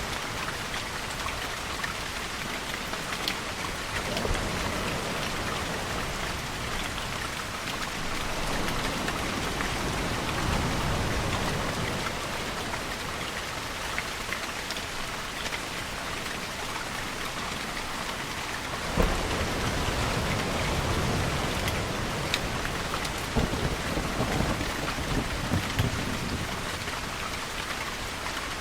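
Steady rainfall with a sharp crack of thunder about two-thirds of the way through, followed by a low rumble.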